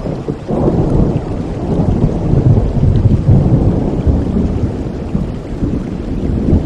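Rolling thunder over steady rain. A low rumble swells about half a second in, is loudest in the middle, and eases off toward the end.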